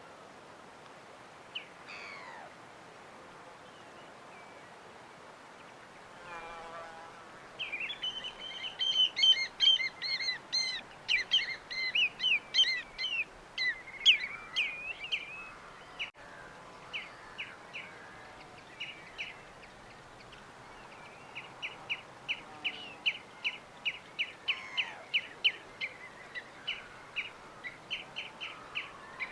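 Birds chirping and singing: a dense run of rapid chirps about a third of the way in, then a single repeated short chirp about twice a second toward the end, over a faint steady hiss.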